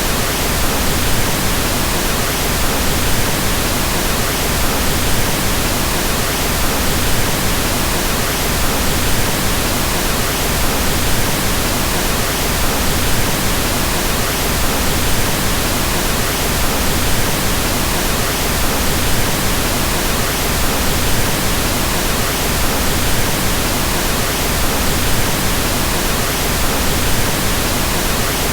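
Steady pink noise: an even, unchanging hiss with more weight in the low end, like soft rain or wind.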